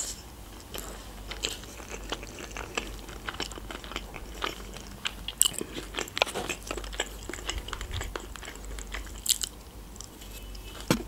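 A person chewing sushi rolls close to the microphone: many small, wet mouth clicks and soft crunches, irregular and without pause.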